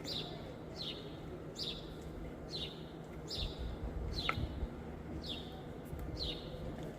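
A small bird chirping: short, high calls that fall in pitch, repeated about once a second, with one longer call dropping lower about four seconds in. A low steady rumble lies underneath.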